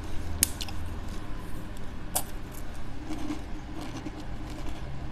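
A person eating a crunchy breadstick: a few sharp cracks, about half a second in and again about two seconds in, amid quieter chewing.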